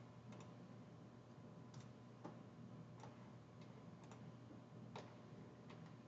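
Near silence: a low steady hum with faint, irregular clicks, about nine of them.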